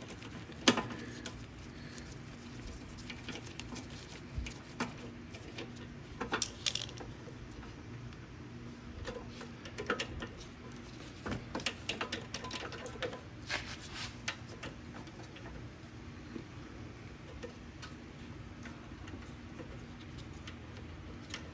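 Scattered light clicks and taps of small metal parts being handled, over a faint steady hum. This is the auto-choke linkage on a Briggs & Stratton 190cc carburetor being moved and checked for what is binding it.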